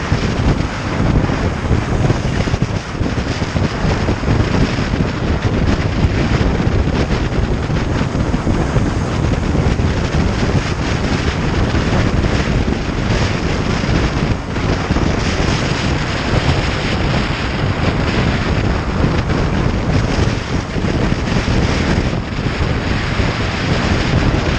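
Steady wind rushing over the microphone on a moving motorcycle, loud and unbroken, with the bike's vehicle noise mixed underneath.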